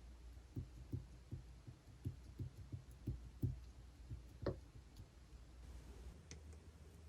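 Clear slime being pressed and poked by hand: a run of faint, soft low thuds, about two or three a second, with one stronger thud about four and a half seconds in, then quieter handling.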